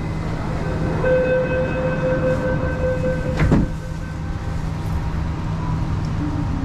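MTR R-Train door-closing sequence: a steady warning tone for about two seconds, then the sliding doors shut with a knock about three and a half seconds in, over the train's steady low hum.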